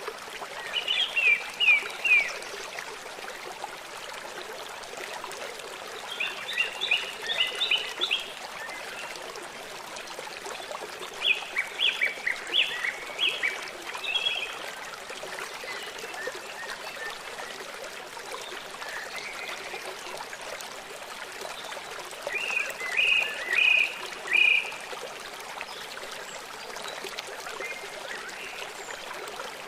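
A river or stream flowing steadily, with a bird calling four times in short phrases of quick, repeated high chirps.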